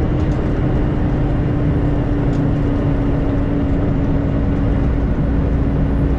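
Semi truck running at highway speed, heard from inside the cab: a steady engine and road rumble with one even hum held throughout.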